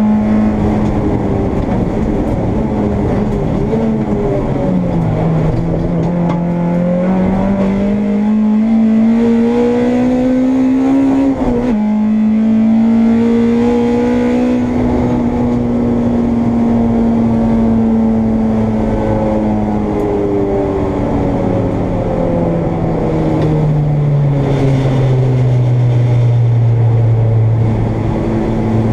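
Honda Integra race car's four-cylinder engine heard from inside the car, running under light load: its pitch climbs gradually, drops sharply with a gear change about twelve seconds in, then slowly falls away toward a low, steady note near the end.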